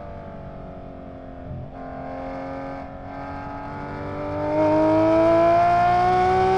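Porsche 992 GT3's 4.0-litre flat-six breathing through prototype Dundon street headers and a loud muffler, heard from inside the cabin while driving on track. The engine note sags slightly at first, then climbs steadily in pitch as the car pulls, growing much louder about four and a half seconds in.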